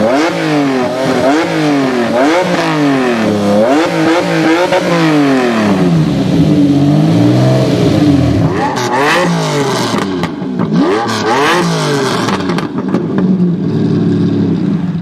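Lamborghini Diablo V12 engine revving hard, its pitch climbing and dropping again roughly once a second, with a steadier, lower-pitched stretch in the middle. It then rises again through several quick sweeps.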